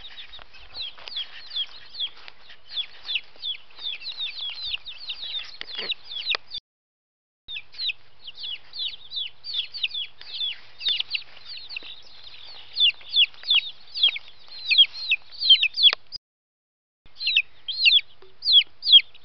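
Chickens peeping: a steady string of short, high-pitched, falling peeps, about two a second, growing louder in the second half. The sound cuts out completely twice for under a second.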